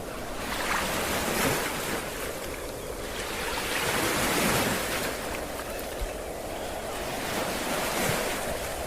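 Ocean waves breaking on a beach, the surf swelling and washing back about three times, with some wind on the microphone.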